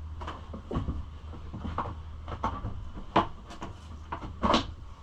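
Knocks and clunks of a Kawasaki KLX110 pit bike seat being fitted back onto the bike, a few separate hits, the loudest about three seconds in.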